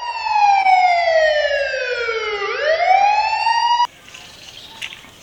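Police car siren sounding one slow wail: the pitch falls steadily, then rises again, and the siren cuts off suddenly about four seconds in.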